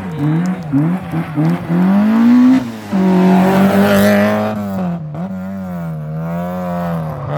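Rally car engine revving hard under a driver's quick throttle changes. The pitch jumps up and down in the first second or so, climbs, drops sharply as the car shifts up about three seconds in, then holds high before easing and wavering.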